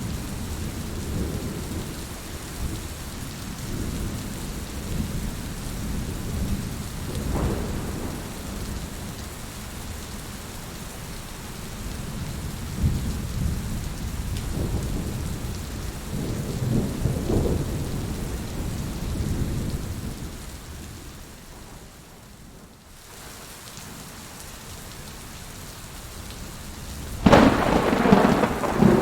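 Heavy rain falling steadily, with low rolling rumbles of thunder throughout. The rain eases briefly past the middle, and a sudden loud thunderclap breaks near the end.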